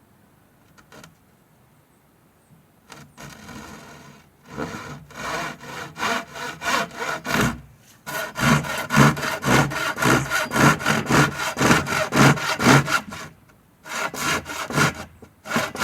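Hand saw cutting through wood in steady back-and-forth strokes. It starts with light strokes a few seconds in, then settles into a strong even rhythm of about three strokes a second, with a brief pause near the end.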